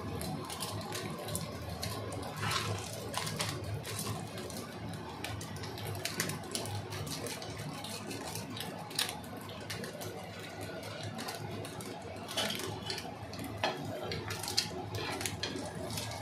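Food frying in a pan: a steady sizzle with irregular crackles and clicks.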